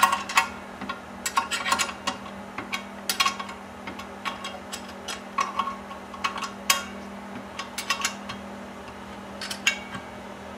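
Irregular metallic clicks and clinks of hand tools and metal engine parts being handled, over a steady low hum.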